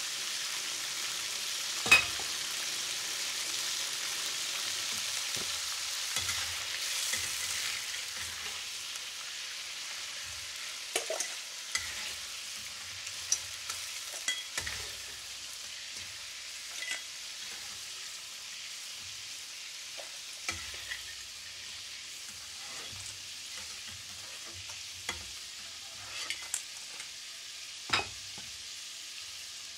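Crawfish sizzling in hot oil in a wok, a steady frying hiss that grows quieter over the second half. Sharp metal clanks of the spatula and a steel bowl against the wok break in now and then, the loudest about two seconds in and near the end.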